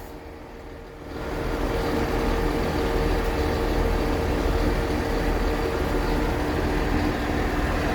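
Heavy diesel engine idling steadily, a low rumble with a held hum, coming up about a second in.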